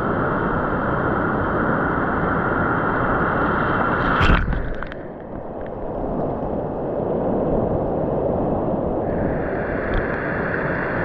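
Ocean surf washing in at the shoreline, recorded with the camera at and under the water: a steady rushing wash, a sharp splash about four seconds in, then a duller, muffled stretch before the brighter wash returns near the end.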